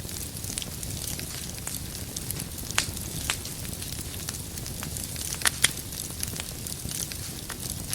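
Wood campfire crackling: irregular sharp pops and snaps over a steady background hiss, with a quick pair of louder pops about five and a half seconds in.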